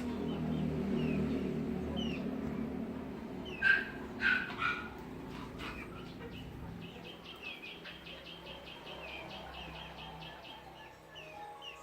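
Small birds chirping with short falling calls, and a fast, even trill through the second half. About four seconds in come three loud calls in quick succession, over a low hum that fades after the first few seconds.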